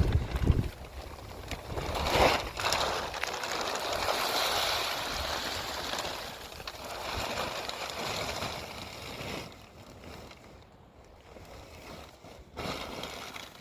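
Water pouring and splashing out as collected rainwater is emptied from the flooded shelter, dying away after about nine seconds. A low thump comes at the very start.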